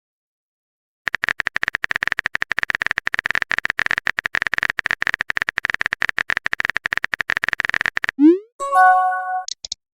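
Synthesized electronic sound effects. After about a second of silence comes a rapid stuttering buzz on one high tone for some seven seconds. It cuts off into a quick upward glide, followed by a short synth chord and a couple of brief high blips near the end.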